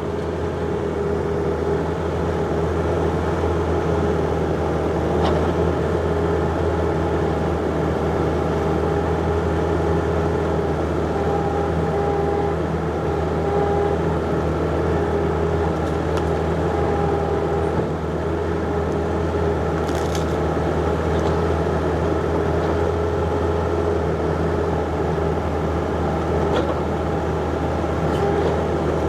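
John Deere 50ZTS mini excavator's diesel engine running steadily under work while digging, with a higher whine that comes and goes midway and a few faint clicks.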